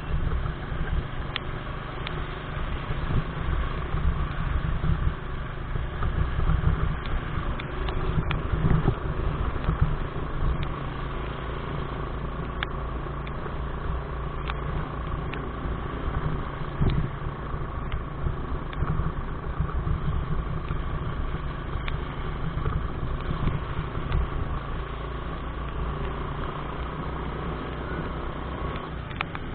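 Motorcycle running steadily along a road, under a heavy low rumble of wind on the microphone.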